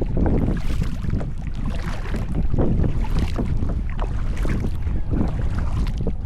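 Wind buffeting the microphone on a sit-on-top kayak, with water splashing and dripping from paddle strokes about once a second.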